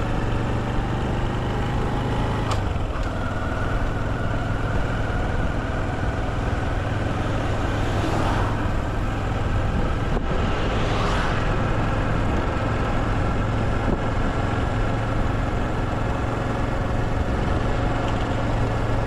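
Motorcycle engine running steadily with a low, even note that shifts slightly about two and a half seconds in. Two brief swells of rushing noise rise and fade about eight and eleven seconds in.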